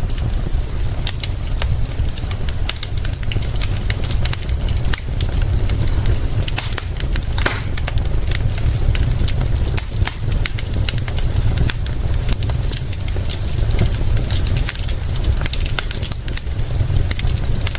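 Wood fire crackling with a constant scatter of sharp pops and snaps, a louder cluster about halfway through, over a steady deep rumble and rain hiss.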